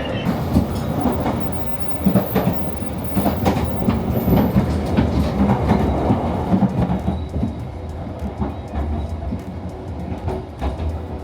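Train running on rails: a steady rumble with irregular clatter and knocks from the wheels over the track.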